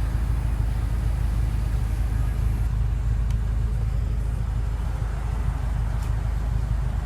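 Low, steady rumble of an idling car engine.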